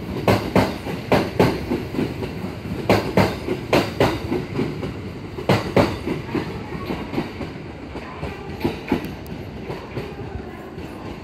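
Kintetsu Series 21 commuter train pulling out of the platform, its wheels clacking over rail joints and points in quick groups over a steady rumble. The clatter thins out and fades in the second half.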